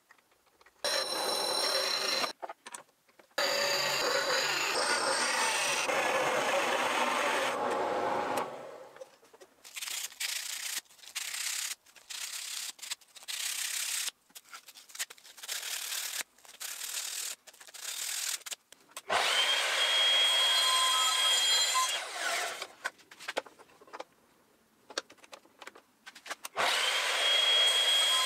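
Drill press boring into walnut with Forstner bits: the motor runs and the bit cuts in a long stretch, then in many short bursts. It comes back in two later stretches with a steady high whine.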